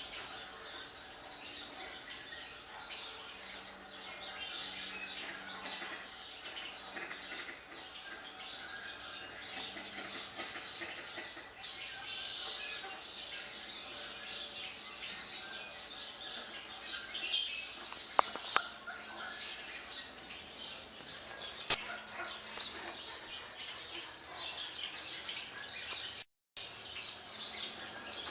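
Many small birds chirping and singing, heard through a TV's speakers: a dense, continuous chatter of high chirps. A few sharp clicks come about two-thirds of the way through.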